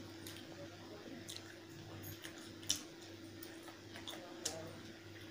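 A person eating chicken curry with rice: soft chewing with a few faint wet clicks, about three, over a steady low hum.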